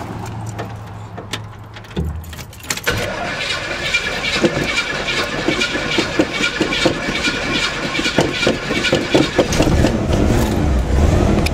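A thump about two seconds in, then the 1963 Chevrolet Impala's starter cranks the engine over in a steady rhythmic churn for several seconds. The engine is slow to start because one cylinder is dead, with a fouled number two spark plug, and it gets louder and heavier near the end as it begins to catch.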